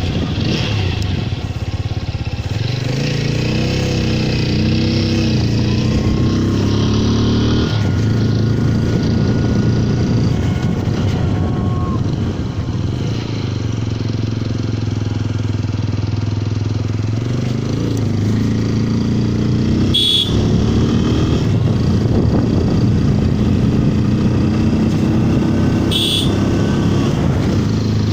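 Single-cylinder TVS Apache RTR 200 motorcycle engine running under way, its pitch rising and dropping several times as it accelerates and eases off, with wind noise throughout. Two short high-pitched sounds come about 20 and 26 seconds in.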